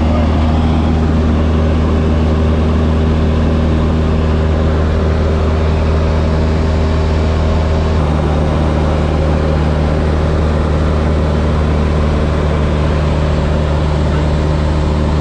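Light propeller airplane's piston engine running with a steady, loud drone. Its tone changes abruptly about eight seconds in.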